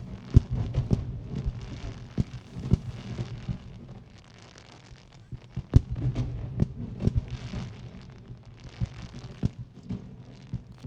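Aerial fireworks display: shells bursting in a rapid, irregular string of sharp bangs that come in clusters, with a low rumble underneath.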